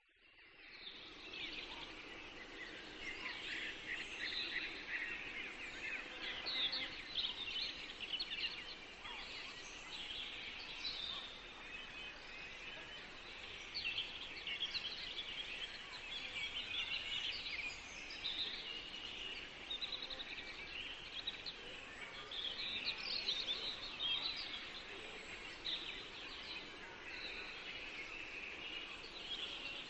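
A dense chorus of forest songbirds chirping and trilling over a soft, even background hiss, fading in over the first second or two.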